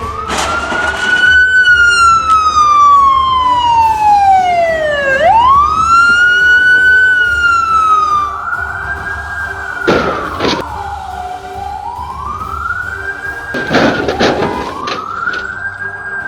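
Emergency vehicle siren wailing. It starts with a slow fall and rise in pitch, then settles into repeated rise-and-fall sweeps of about two to three seconds each. Short, loud noisy bursts cut in near the start, about ten seconds in, and again around fourteen seconds.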